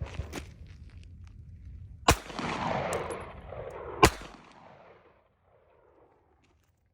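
Two 9mm shots from a Navy Arms Mamba pistol, about two seconds apart, with the second the louder. Each crack trails off in a short echo.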